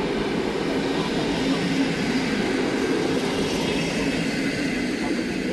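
Train running through the station, with a steady noise of wheels rolling on track.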